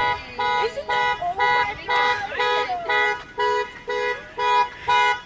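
A car's horn honking over and over, about two short honks a second, set off by the panic button on its key fob.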